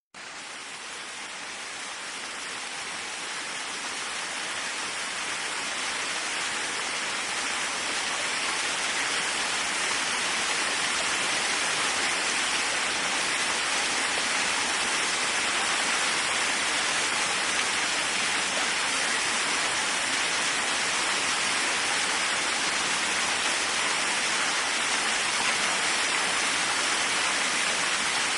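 Waterfall: a steady rush of falling water that fades in out of silence, swelling over the first several seconds and then holding even.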